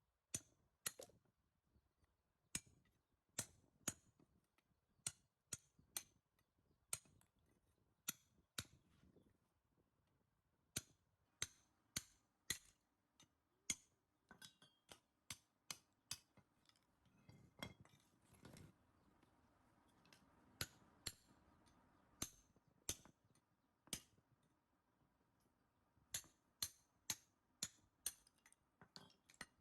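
Hand tools clinking and tapping on metal parts: irregular sharp metallic clicks, about one to two a second, with a couple of duller knocks a little past the middle.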